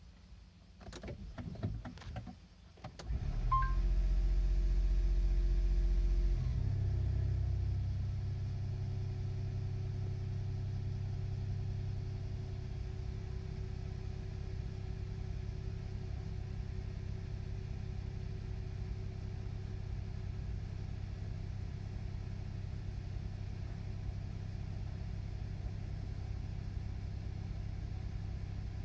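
A few clicks and knocks, then about three seconds in the Nissan Note e-Power's three-cylinder generator engine starts with a loud low hum. After a few seconds it settles into a steady, somewhat quieter running note.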